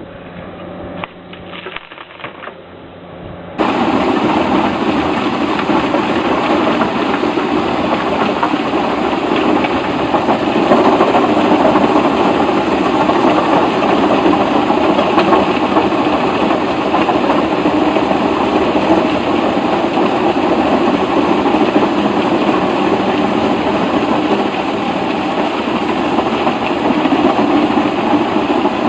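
A few faint knocks, then about three and a half seconds in a loud, steady engine or machine noise starts abruptly and runs on evenly.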